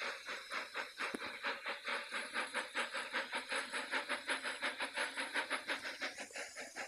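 Rhythmic steam-engine chuffing, about five puffs a second, dying away near the end as the engine comes to a stop.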